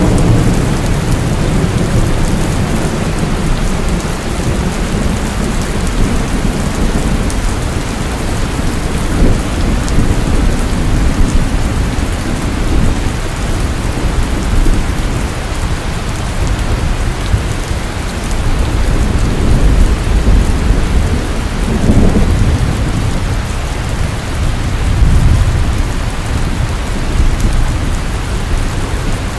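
Heavy, steady rain falling, with low rolling rumbles of thunder that swell and fade several times, loudest about twenty seconds in.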